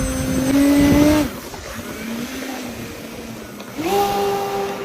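A homemade aircraft's motor and propeller droning in flight. The pitch climbs over the first second, falls away, then jumps to a higher steady pitch near the end.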